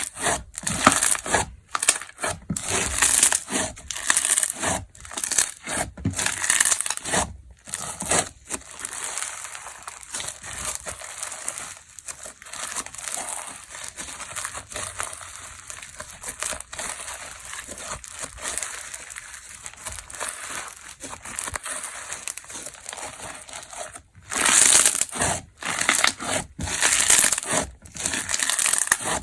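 Crackly slime being squeezed and worked by hand, giving dense crackling and crunching. It is loud for the first several seconds, drops to a finer, quieter crackle in the middle, and turns loud again near the end.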